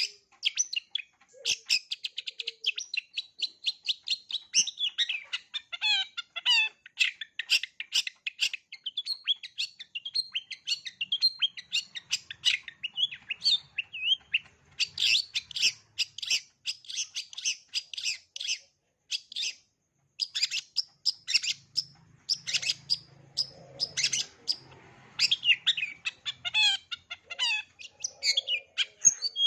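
Long-tailed shrike (cendet) singing a fast, high-pitched run of chirps, trills and mimicked calls, its varied 'isian' song, with a couple of brief pauses.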